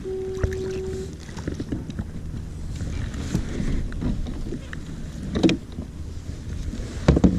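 Knocks and bumps on a fishing kayak with low water and wind noise; a short steady tone lasts about a second at the start, and the loudest knocks come about five and a half and seven seconds in.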